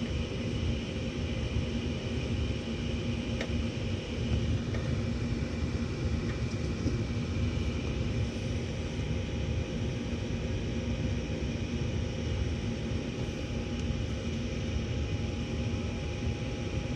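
Gas furnace running: a steady rumble with a constant motor hum, and a couple of faint clicks a few seconds in.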